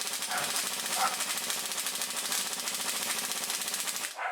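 Craftsman pneumatic air ratchet running on a cylinder head bolt of a Buick 455 V8, a rapid, steady rattle of clicks that stops about four seconds in. The ratchet fails to break the bolt loose, not enough torque for the job, so an impact gun is needed.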